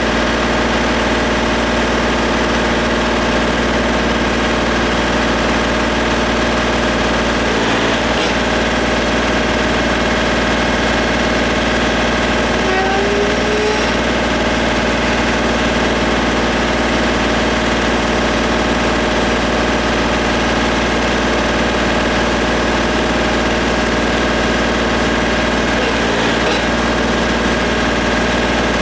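Compact tractor-loader-backhoe's diesel engine running at a steady idle, an even drone with no change in speed.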